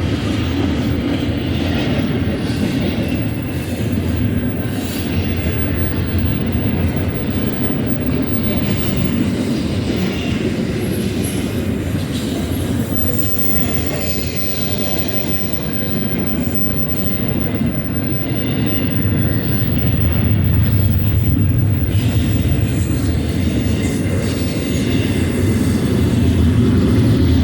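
Freight train passing, its cars rolling over the rails with a continuous rumble and wheel clatter, growing somewhat louder in the last few seconds.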